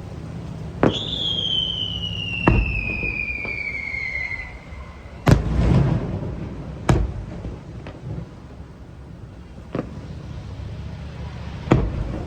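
Fireworks display: about six sharp bangs of shells bursting, the loudest about five seconds in, with a whistling firework whose whistle falls steadily in pitch for about three and a half seconds near the start.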